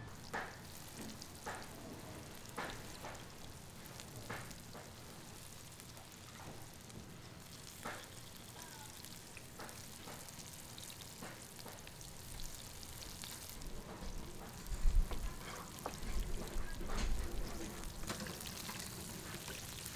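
Hot oil sizzling steadily as food fries, with scattered light clicks of utensils and a cluster of louder low thumps about three-quarters of the way through.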